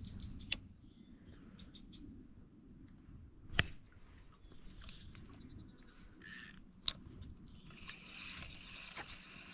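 Faint, steady low rush of creek water, with a steady high-pitched hum over it and three sharp clicks: about half a second in, about three and a half seconds in, and near seven seconds.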